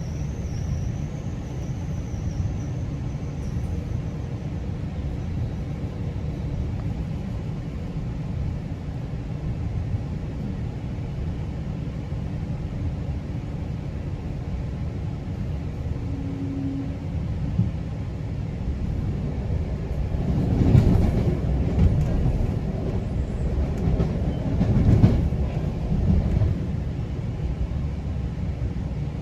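GO Transit train running along the track with a steady low rumble. About two-thirds of the way through it grows louder and rougher for several seconds, then settles back.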